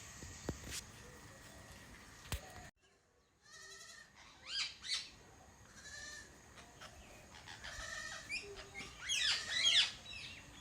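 Pet Indian parrot calling from a tree in short, harsh squawks: two calls about halfway through and a quicker, louder run near the end.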